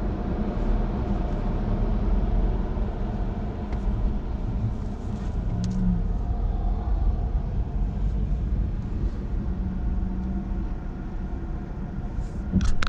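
Steady low rumble of a car running and rolling slowly, with a few sharp knocks at the very end.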